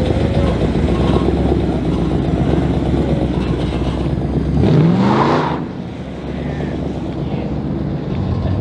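Car engine running with a steady low rumble, then one quick rev rising sharply in pitch about five seconds in. After the rev the low rumble falls away.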